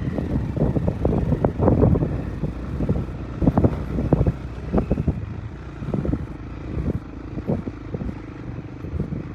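Motorcycle engine running at low speed on a rough, rocky track, with repeated knocks and rattles over the steady engine note, thickest in the first few seconds.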